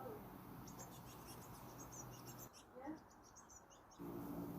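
Faint, high-pitched chirping of small birds in quick short notes over a low steady hum. It drops almost to silence about two and a half seconds in.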